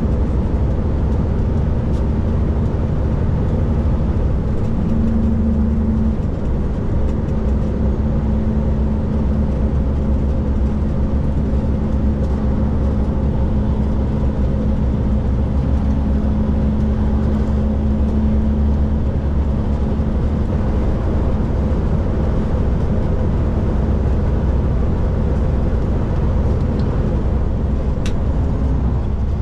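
Kenworth K200 cabover's Cummins diesel engine running steadily as the truck drives at speed, over constant road and tyre noise; the engine hum shifts in pitch slightly a few times.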